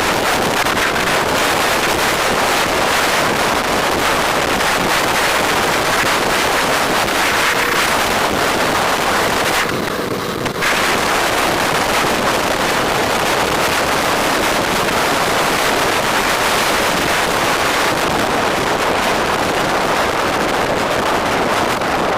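Steady, loud wind noise rushing over the microphone of a camera on a moving bike, with road noise beneath. It eases briefly about ten seconds in.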